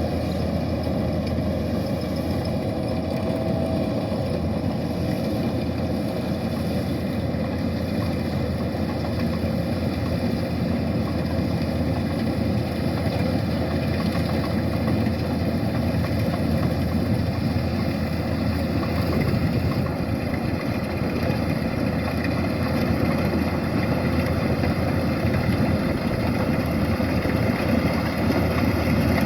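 Kubota DC-105X combine harvester's diesel engine running steadily with an even, unbroken drone.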